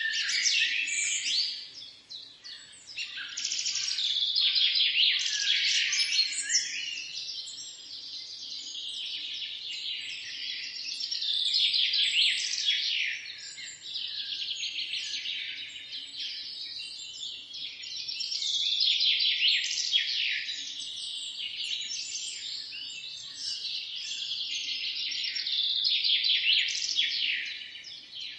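A chorus of many songbirds chirping and singing at once: dense, quick, high calls that overlap throughout and swell and ease every several seconds.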